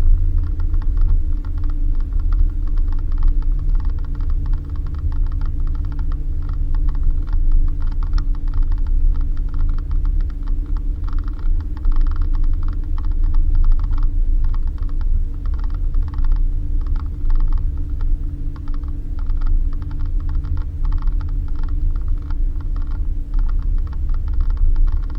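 Suzuki Jimny driving on a rough dirt road: a steady engine hum over a heavy low rumble, with constant rattling and creaking of the body and fittings.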